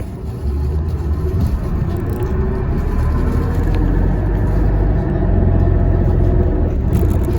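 Alexander Dennis Enviro400 MMC hybrid double-decker bus running, heard from inside: a low rumble with a faint steady hum, growing louder over the first few seconds, then holding steady.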